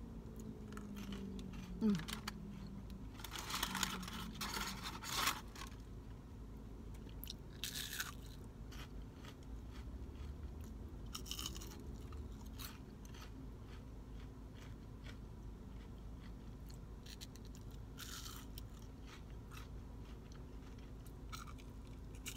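Close-up crunching bites and chewing of fried onion rings, in separate bursts a few seconds apart, the loudest about four seconds in.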